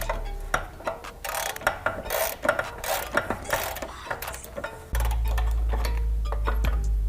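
Quick metallic clicks and knocks of hand tools at work, ratchet-like. About five seconds in, a steady low drone starts suddenly and continues under them.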